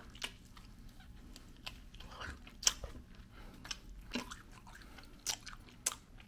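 A person chewing a mouthful of barbecue rib tips: irregular short smacks and clicks of eating.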